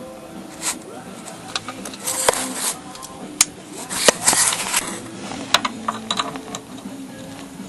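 Hand tools working on bolts: irregular sharp metal clicks and short rasping strokes, several in quick succession about two and four seconds in.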